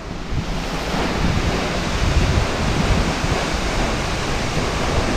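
Waterfall rushing: a steady, dense noise of falling water, fairly loud.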